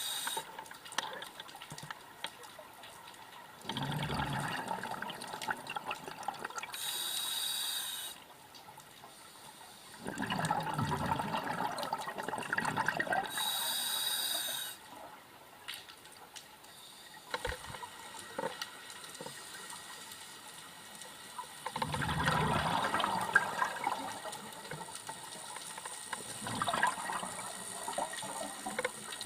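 Scuba regulator breathing underwater. There are about three breaths, each a few-second gurgling rush of exhaled bubbles followed by a short, high, whistling hiss of inhalation through the regulator.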